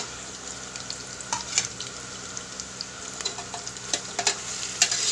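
Sliced onions, garlic, ginger and chillies sizzling in hot oil in a pressure cooker pot, with a steel spoon scraping and clicking against the metal now and then as they are stirred.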